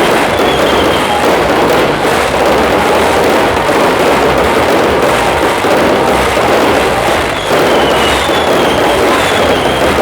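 Dense fireworks barrage, bangs and crackle running together without a break, with several short falling whistles now and then.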